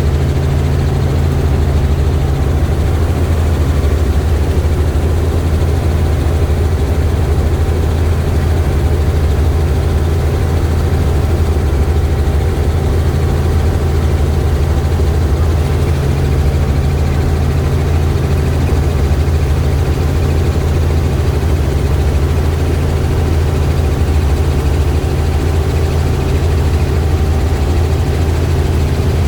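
Helicopter in flight: a loud, steady low drone of rotor and engine, with a faint steady whine above it.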